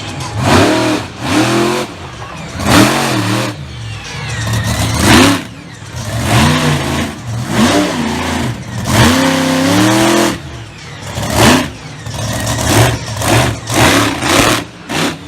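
Monster truck engine revving hard, over and over, its pitch rising and falling with each burst of throttle, with loud bursts of exhaust noise in between.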